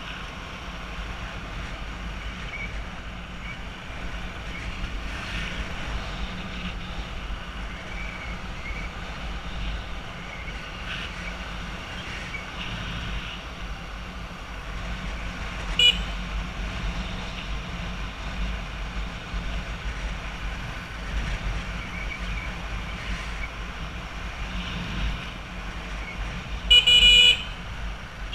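Road traffic: a steady rumble of engines and road noise, with a vehicle horn honking briefly about halfway through and again, louder and longer, near the end.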